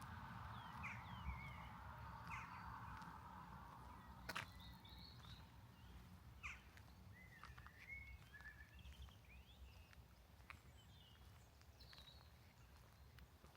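Small birds chirping and calling faintly, short scattered notes throughout, over a soft hiss that fades after the first few seconds. A single sharp click about four seconds in.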